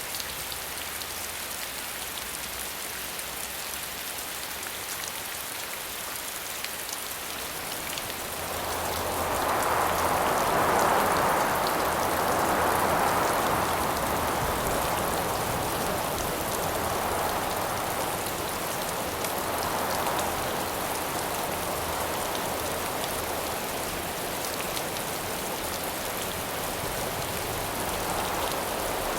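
Steady rain falling, joined about a third of the way in by gusts of wind that swell and fade several times, louder than the rain.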